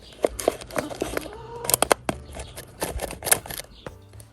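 A run of irregular sharp clicks and light knocks: tools and engine parts being handled.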